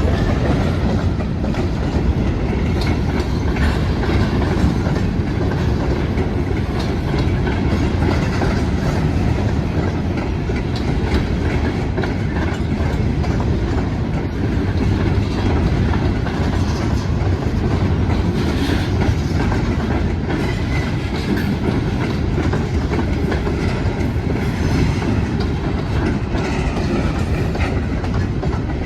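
Railroad cars rolling past, a steady rumble with wheels clicking over the rail joints.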